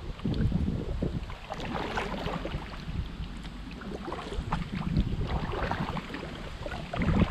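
Water splashing and dripping from kayak paddle strokes, a steady run of small irregular splashes, with wind buffeting the microphone underneath.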